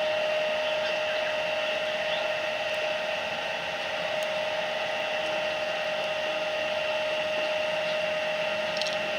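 Steady background hum with a strong constant tone, like a small motor or fan running, with a few faint ticks.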